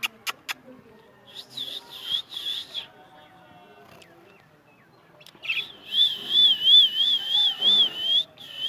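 High whistling near the top of the voice range: a few short warbled notes, then from about halfway in a long whistle that wavers evenly up and down about three times a second.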